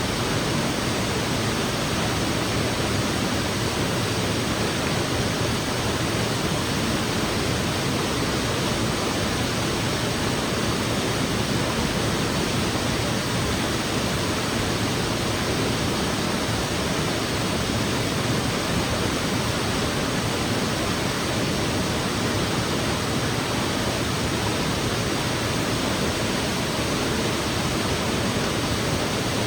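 Waterfall pouring into a creek pool: a steady, loud rush of falling water.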